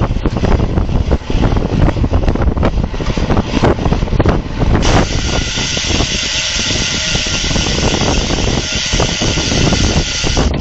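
Wind rushing over the microphone of a camera on a road bike at racing speed, loud and gusty. About halfway through, a steady high hiss switches on abruptly and runs until near the end.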